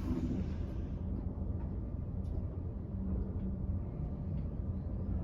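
Kone Marine passenger elevator car travelling down: a steady low rumble with a faint hum and a few faint ticks.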